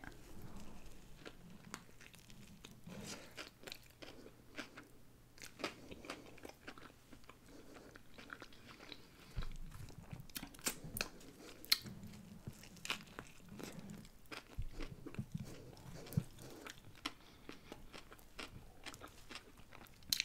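Close-miked biting and chewing of a pulled-pork sandwich on a soft roll with coleslaw and onion. Irregular wet mouth clicks run throughout.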